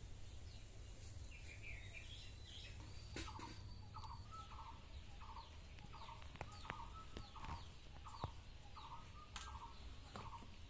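Faint, short bird calls repeated about twice a second, starting about three seconds in, with a few higher chirps before them and a few faint clicks.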